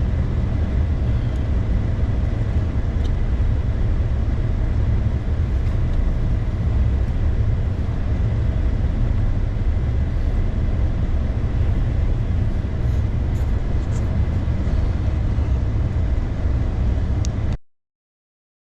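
Steady low rumble of a pickup truck driving, heard from inside the cab: engine and tyre drone with no speech, cutting off suddenly near the end.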